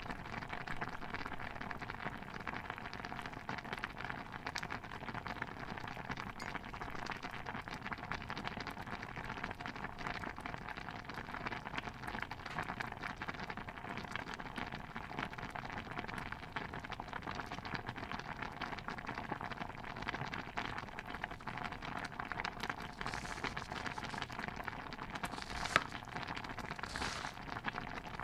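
Stew bubbling in a pot: a dense, steady crackle of small popping bubbles, with a few sharper pops near the end.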